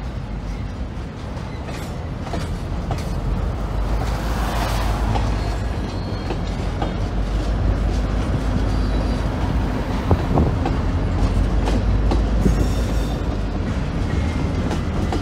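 Freight train's cars rolling slowly past, wheels clicking and knocking over the rail joints over a steady low rumble. The diesel locomotive shoving the train grows louder as it draws near toward the end.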